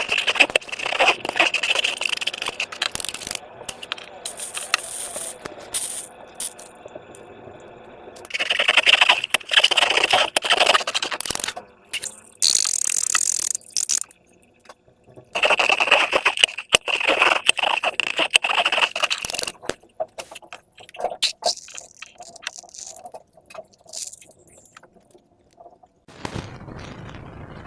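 Slime being squished and stretched by hand: wet, sticky crackling and small popping clicks that come in several stretches a few seconds long, with short pauses between them. A steady hiss starts near the end.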